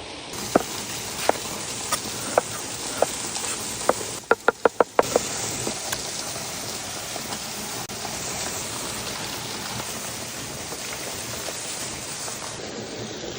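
Steady hiss of campfire cooking, like food sizzling, with scattered sharp cracks and a quick run of about six knocks around four seconds in.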